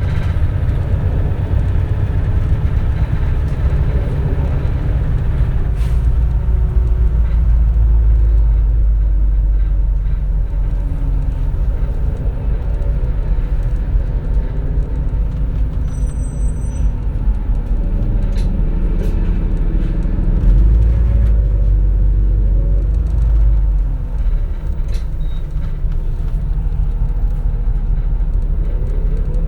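Inside a 2004 CNG (compressed natural gas) city bus underway: the engine running under a heavy low rumble of road noise, its pitch rising and falling several times as the bus speeds up and slows, with a rise near the end.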